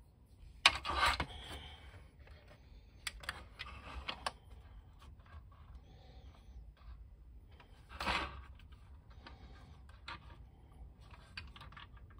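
Small handling noises of plastic toy parts being set down and adjusted: a clack about a second in, scattered light clicks and rubs, and a short scrape around eight seconds.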